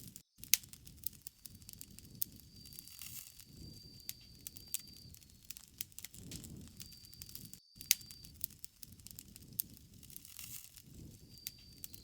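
Bonfire crackling, with frequent sharp pops and snaps over a low rush of flames that swells every few seconds. A thin, high insect trill comes and goes.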